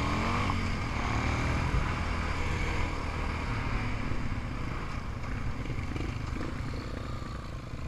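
Off-road engine idling, with a brief rev at the very start, then running steadily and getting slightly quieter over the following seconds.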